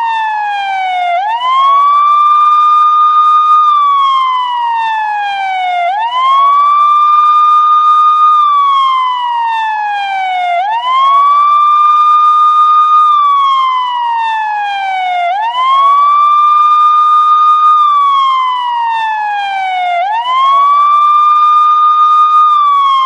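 Siren wailing in slow, even cycles: each rises quickly to a high steady tone, holds it for about two seconds, then slides down slowly, repeating about every four and a half seconds, five times.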